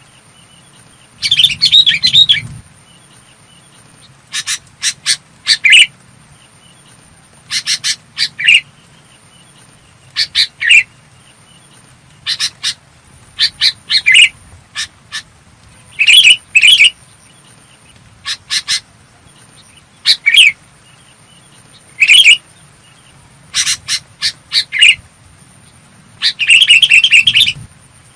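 Sooty-headed bulbul singing: loud, clear, short bubbling phrases repeated about every two seconds, with longer phrases near the start and near the end.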